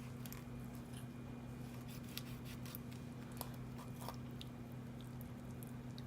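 Faint scattered clicks and crunches of a kitchen knife cutting through a raw chicken at the backbone, over a steady low hum.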